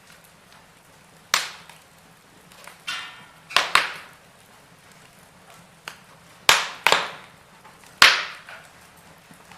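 Wood fire burning in a fireplace, crackling with about six sharp pops and snaps over a faint steady hiss.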